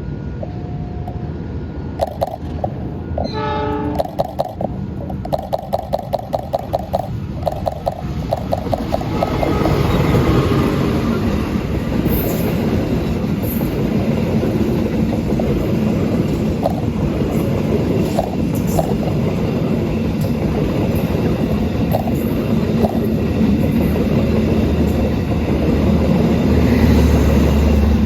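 A CC 206 diesel-electric locomotive and its passenger train arrive. In the first seconds a bell-like ding repeats rapidly, about four times a second, with a short horn blast about three to four seconds in; from about nine seconds the train's rumble swells and stays loud, with the wheels clacking over the rail joints.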